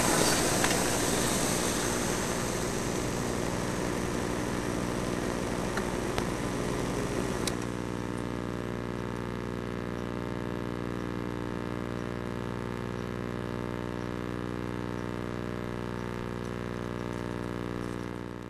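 Suzuki GSX-R motorcycle engine idling, under a noisy rush that fades over the first seven or eight seconds. After that the idle holds steady and even.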